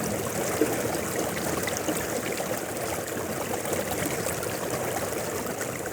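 Mountain river flowing steadily: an even rush of water with many small splashes.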